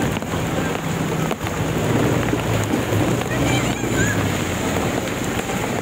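Small motorcycle or scooter engine running steadily while riding through floodwater, with rain and water rushing and splashing around it.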